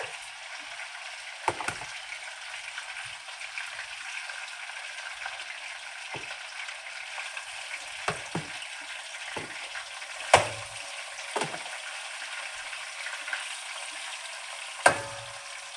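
Fish frying in a pot of hot oil: a steady sizzle, broken by a few sharp clicks at irregular moments, the loudest about ten seconds in and again near the end.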